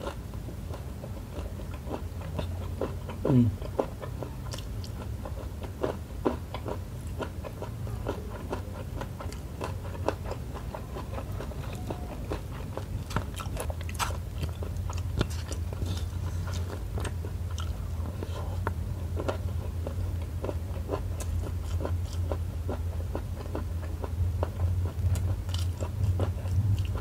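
Close-miked chewing of a mouthful of rice, sambal shrimp and petai beans, with many small wet mouth clicks and smacks throughout, over a low steady hum.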